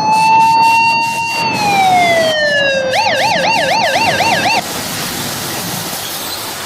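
Emergency vehicle siren: a long wail that holds high, then falls, then switches to a fast yelp of about four rises and falls a second before cutting off. A steady hiss remains after it stops.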